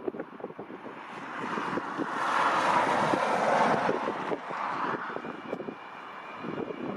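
Antonov An-124's four turbofan engines swelling as the freighter goes past on its landing, loudest a couple of seconds in and then fading away. Gusty wind buffets the microphone throughout.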